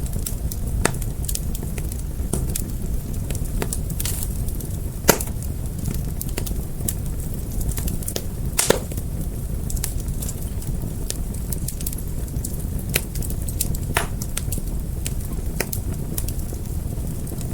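Fire crackling: a steady low rumble of flames with irregular sharp pops and snaps, two of them louder, about five and nine seconds in.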